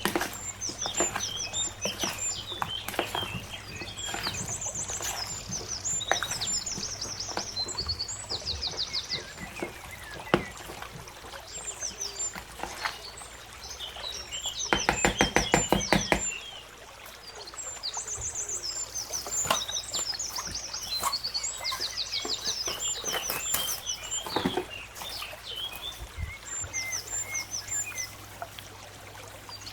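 Birds chirping in short repeated high calls, over a steady low hum. About fifteen seconds in comes a loud run of rapid clicks lasting a second or two.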